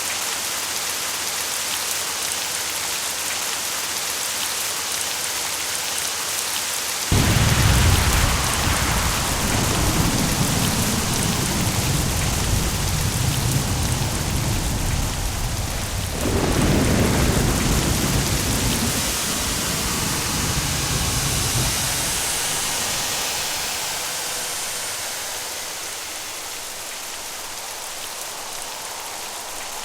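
Steady rain with thunder: a sudden thunderclap about a quarter of the way in rolls into long rumbling, a second clap breaks about halfway, and the rumble dies away after about three-quarters. The rain goes on throughout, a little quieter near the end.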